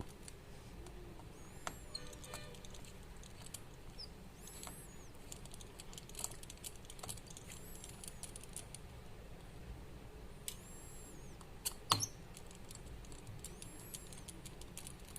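Quiet clicks and taps of small repair tools working inside a vivo V5 smartphone as its internal connectors are detached, with one sharper click about twelve seconds in. Faint high chirps come and go in the background.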